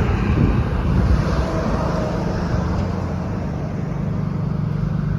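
A motor vehicle engine running steadily with a low hum, heard over outdoor road-traffic noise.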